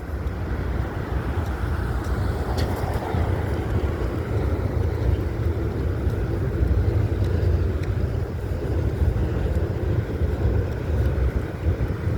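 Freight cars of a CSX mixed freight train rolling past over the bridge: a steady low rumble of wheels on rail, with a faint click a little under three seconds in.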